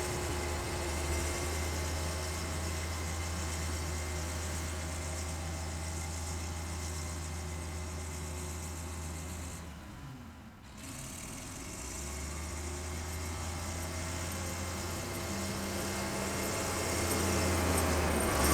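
Old Volvo tractor engine running steadily under snow-clearing work. Its low hum drops briefly about ten seconds in, then grows louder near the end.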